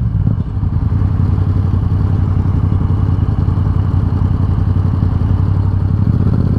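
Motorcycle engine idling steadily in neutral with an even, rapid pulse. Near the end the engine note starts to rise as the bike is revved.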